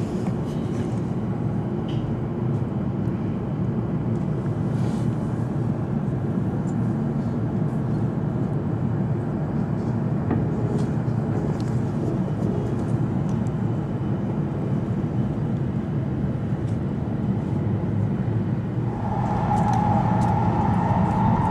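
Steady cabin noise inside a Hokuriku Shinkansen train, a low even hum while it stands at the platform. About 19 s in it turns to louder running noise with a steady higher-pitched whine as the train runs at speed.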